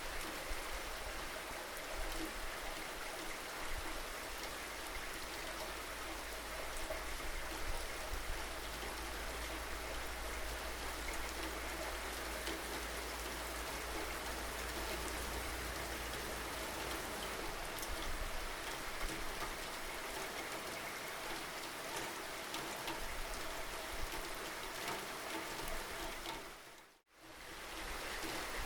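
Steady rainfall, with scattered individual drops ticking on a surface. Near the end the sound fades out for a moment and comes straight back.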